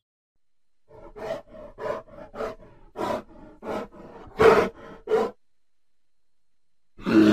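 A bear grunting in a quick series of short, rough calls, the two last ones loudest. After a pause of about two seconds, a long, loud call starts near the end.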